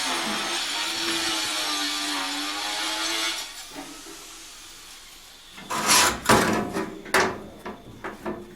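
A small motor-driven tool or machine runs steadily with a slightly wavering hum and stops about three seconds in. From about six seconds on come a run of sharp wooden knocks and clatter, as of wooden pieces being handled and knocked together.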